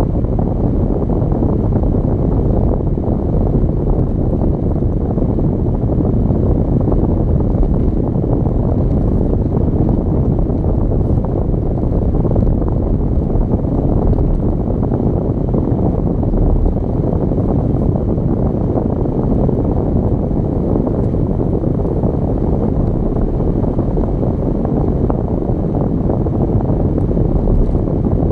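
Steady rumble of a car driving on the road: tyre and wind noise at an even speed, with no gear changes or clear engine note.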